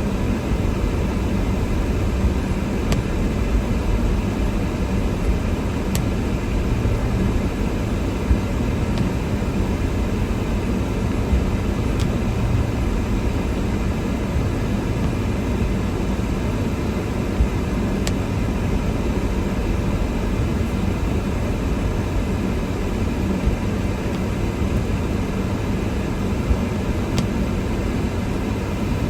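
Steady rumble of a car driving through snow, heard inside the cabin: engine and tyre noise with no change in speed, and a few faint ticks every several seconds.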